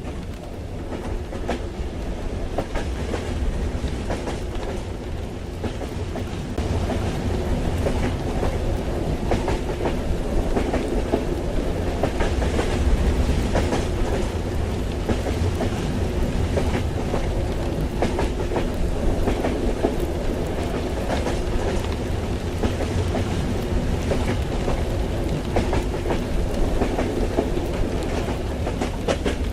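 Ride inside a moving train carriage: the steady low rumble of the train running, with rail clatter and rain pattering on the windows. It gets slightly louder about seven seconds in.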